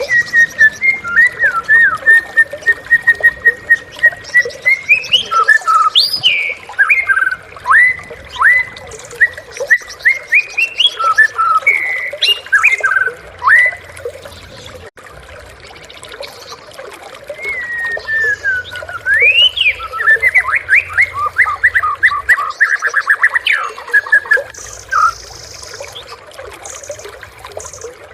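White-rumped shama (murai batu) singing: loud, varied whistled phrases with sliding notes, a long run of even notes near the start, a pause about halfway, and a fast trill of rapidly repeated notes near the end.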